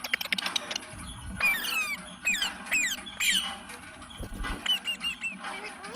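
Pet green parrot chirping: about half a dozen sharp calls that each sweep down in pitch, then a few shorter, quieter chirps near the end. A quick run of clicks at the start.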